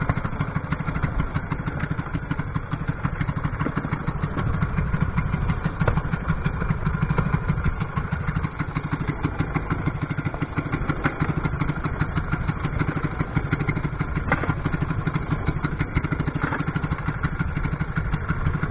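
Small fishing boat's engine running steadily under way, a fast, even pulsing beat.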